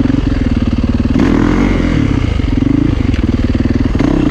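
Dirt bike engine revving under load, its pitch rising and falling several times as the throttle is worked.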